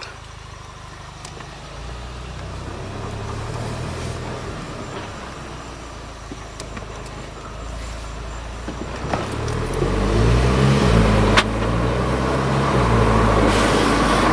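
Volkswagen Mk6 GTI's turbocharged four-cylinder running with its muffler deleted, pulling away and accelerating, with a deep growl. The engine note gets louder from about two seconds in and louder again from about nine seconds in, with one sharp click near the end.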